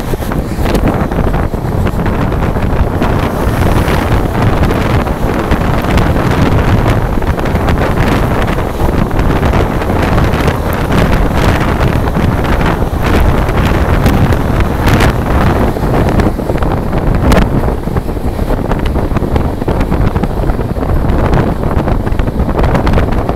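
Express train passing close by at speed: a steady loud rumble with sharp wheel clacks over the rail joints, and wind buffeting the microphone.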